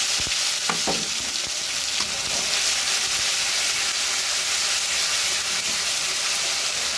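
Onion paste frying in hot oil in a wok, a steady loud sizzle as it is stirred, with a few light knocks in the first two seconds.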